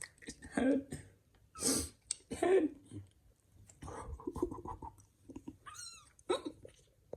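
Kittens meowing, several short calls with a higher bending mew about six seconds in.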